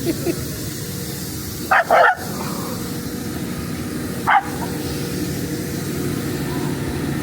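A cockapoo barking three short barks, two in quick succession a little under two seconds in and one more a little over four seconds in, over the steady rumble of a moving train.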